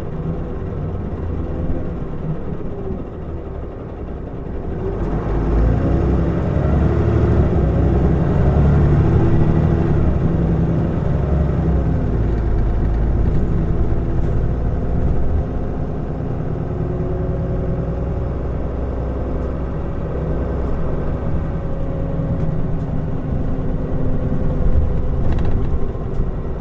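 Mitsubishi Fuso Aerostar city bus's diesel engine running on the road. It pulls away harder about five seconds in, the engine note rising and falling through the gears, then settles into steady running.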